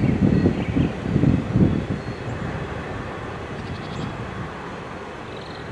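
A departing freight train's rumble fades into a low, steady background. Wind buffets the microphone in gusts for the first two seconds or so.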